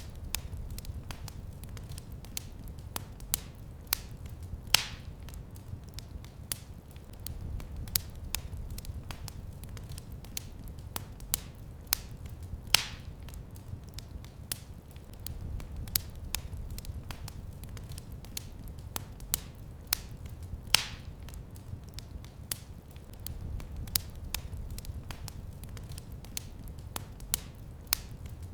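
Wood fire crackling: frequent small, sharp crackles, with a louder pop about every eight seconds, over a low, steady rumble of the flames.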